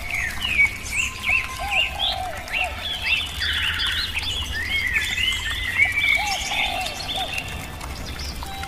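Several birds chirping and singing in a dense, overlapping chorus of short rising-and-falling chirps, with a brief rapid trill a few seconds in, over a low steady hum.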